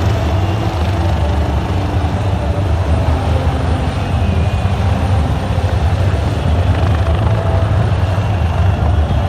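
Helicopter rotor and engine noise, loud and steady, with a rapid low flutter.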